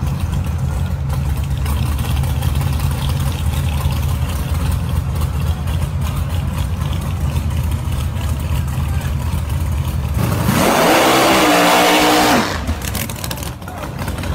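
Drag race cars' engines idling on the starting line, then about ten seconds in an engine revs sharply up and holds at high rpm for about two seconds as a car launches, cutting off abruptly.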